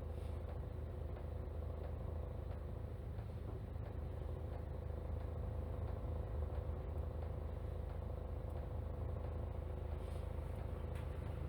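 City route bus running along the road, heard from inside the passenger cabin: a steady low engine and road rumble with a constant hum above it.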